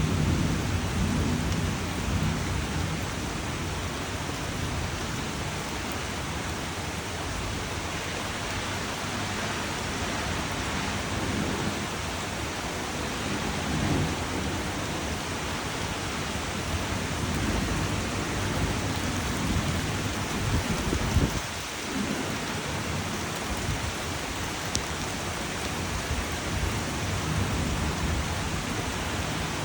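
Steady rain falling, a continuous even hiss, with low rumbles swelling a few times; the loudest comes about two-thirds of the way through.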